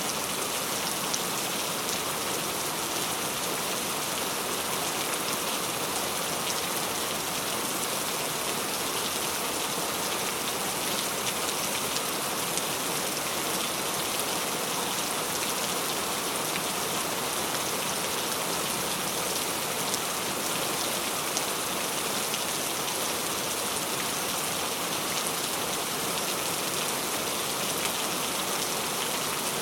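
Heavy rain falling steadily and hard, a dense hiss of many drops hitting surfaces, without a break.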